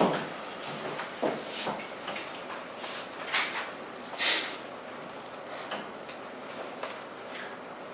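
Irregular clicks and taps of computer keyboards and mice at work in a small room, with a few louder knocks at the start, about a second in and around the middle.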